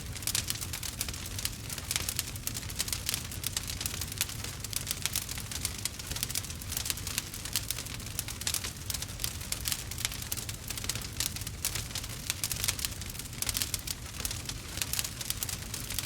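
Wood fire crackling and popping steadily, a dense run of small sharp crackles over a low rumble of the flames.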